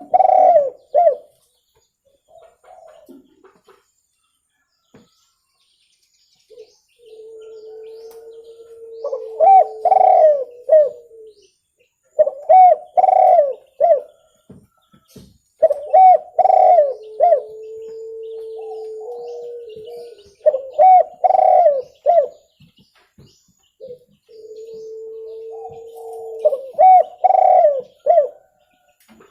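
Spotted dove (tekukur) cooing: about six short phrases of three or four rounded notes, repeated every few seconds, the kind of call used to lure wild doves. A faint steady hum sounds under several of the phrases.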